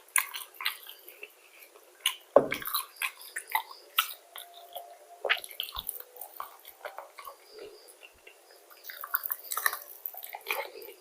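Close-mouthed eating of fried chicken and fries: irregular crackly chewing and crunching clicks, with one louder thump about two and a half seconds in.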